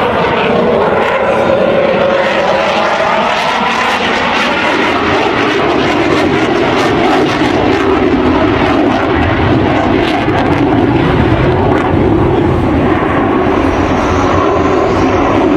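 Loud jet noise from a Dassault Rafale's twin Snecma M88 turbofans in flight display. Its pitch glides downward over the first few seconds as the jet passes, then it settles into a steady, loud rumble.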